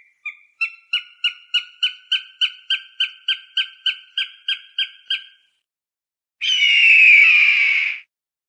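Falcon calling: a rapid run of short, sharp calls, about three a second, for some five seconds, then after a pause one long, harsh scream that falls slightly in pitch.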